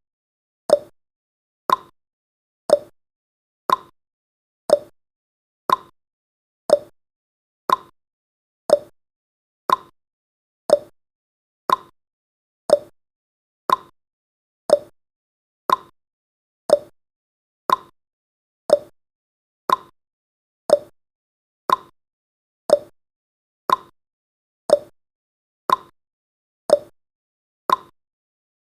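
Countdown timer's ticking sound effect: a short, sharp tick once a second, evenly spaced like a clock.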